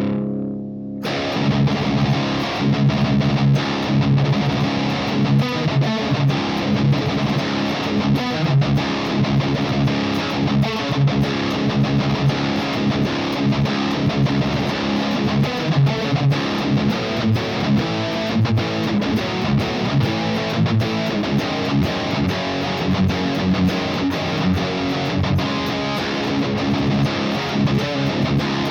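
Distorted electric guitar, an Ernie Ball Music Man Majesty played through the blue channel of a MESA TC-100 tube amp with no boost pedal engaged, playing metal riffs. A held chord cuts off sharply near the start, and after a short gap fast, tightly picked riffing runs on.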